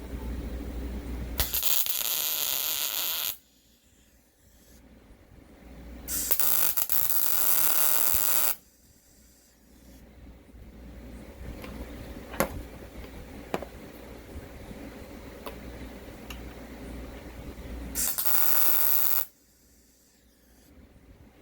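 Three bursts of metalworking noise on the steel control arm mount, each one to two seconds long and starting and stopping abruptly, with a low hum and a few sharp clicks between.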